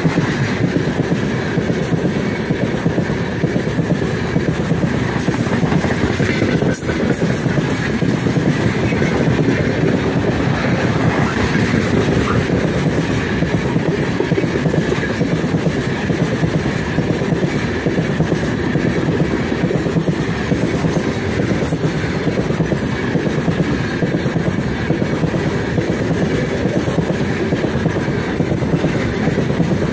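Heavy freight train of open wagons rolling past close by: a steady, loud rumble and clatter of steel wheels on the rails.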